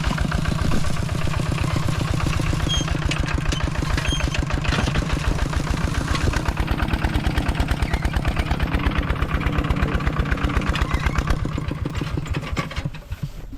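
A small vehicle engine running hard with an even pulsing beat. Its beat slows down about halfway through and dies away near the end.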